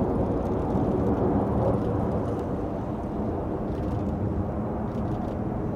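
Jet aircraft engine rumble, a deep steady roar that slowly fades.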